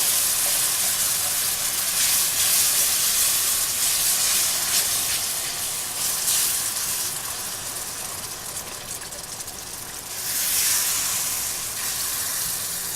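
Milk going into a hot pan of flour and meat drippings for milk gravy, sizzling and steaming with a steady hiss. The hiss eases off after about seven seconds and flares up again about ten seconds in as more milk hits the pan.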